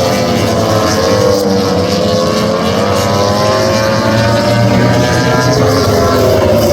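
Several MotoGP race motorcycle engines running at high revs together, their pitches rising and falling as the bikes accelerate and back off.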